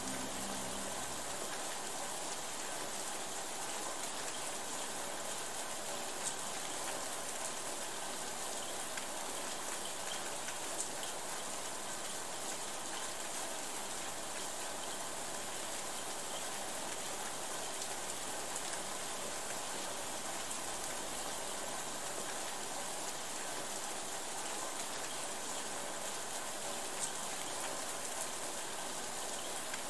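Steady rain falling, an even hiss with an occasional sharper drop tick. A low hum ends about a second in.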